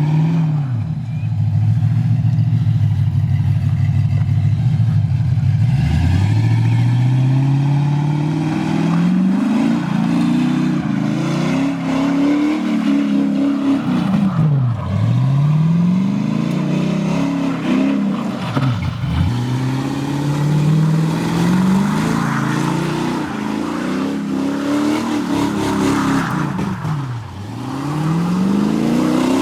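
Muscle car engine revved hard again and again, its pitch climbing and dropping about half a dozen times as the car is spun through donuts.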